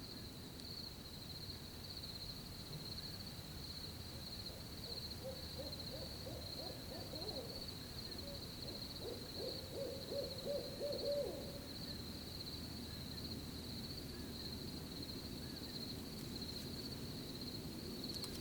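Crickets chirping steadily in a fast, pulsing high trill, with an owl hooting over them in a run of short hoots from about five seconds in, loudest around ten to eleven seconds, then stopping. A low, even rumble of night air lies underneath.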